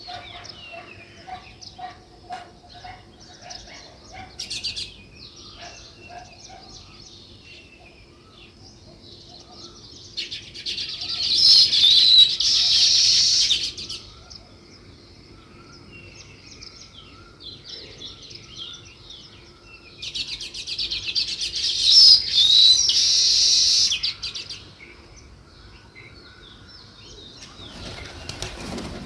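A flock of small songbirds chirping: scattered chirps, broken twice by loud bursts of dense chattering that last three to four seconds each, about a third of the way in and again past two-thirds. A faint steady hum runs beneath.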